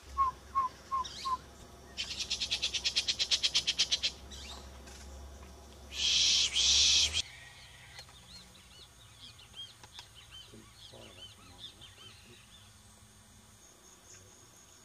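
Wild birds calling: four short hooting notes, then a fast rattling trill, a loud harsh burst, and later a scatter of faint high chirps.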